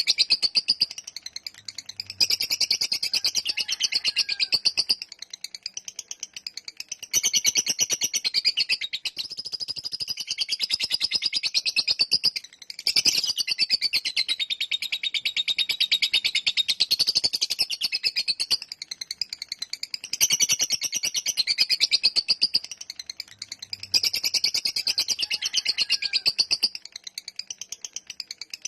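Lovebird giving its long 'ngekek' song: a very fast, high-pitched chattering trill in long unbroken runs of several seconds each, with short breaks between the runs.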